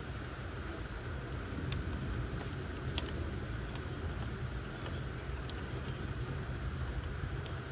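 Steady thundershower rain hissing evenly, with scattered sharp drip ticks and a constant low rumble underneath.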